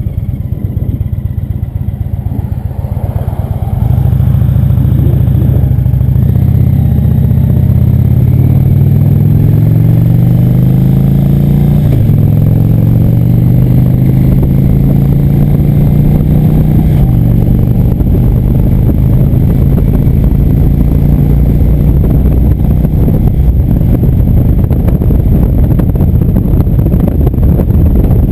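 Indian motorcycle's V-twin engine under way: about four seconds in it gets louder and the engine note climbs, dropping back at gear changes about 12 and 17 seconds in, then runs steady at cruising speed.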